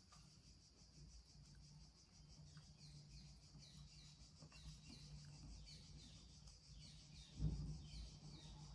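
Faint background: small birds chirping in a run of short falling notes over a steady high insect drone and a low hum, with one soft low bump near the end.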